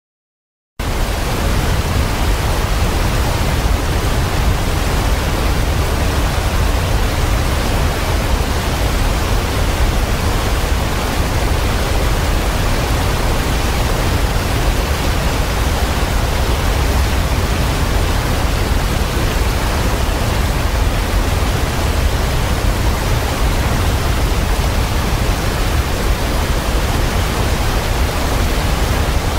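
Waterfall: a steady, dense rush of falling water, heaviest in the low end, starting abruptly just under a second in after silence.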